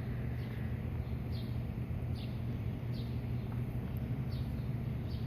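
A fledgling bird, not yet able to fly, chirping faintly: short high chirps that drop in pitch, repeated roughly once a second, over a steady low hum.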